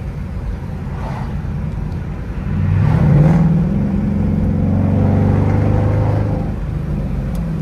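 Dodge Durango R/T's 5.7-litre Hemi V8 running under way. About two and a half seconds in it gets louder and climbs slightly in pitch as it accelerates, holds for a few seconds, then eases back off the throttle.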